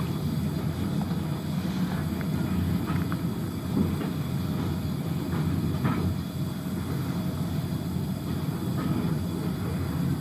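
Railway carriage rolling along the track, heard from inside: a steady low rumble with a few light knocks.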